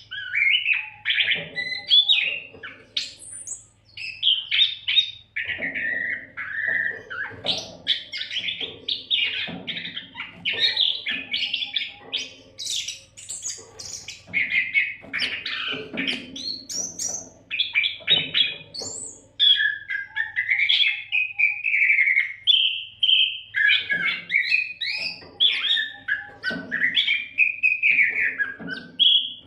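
Oriental magpie-robin (kacer) singing vigorously without pause: a fast, varied stream of whistles, trills and harsher chattering notes.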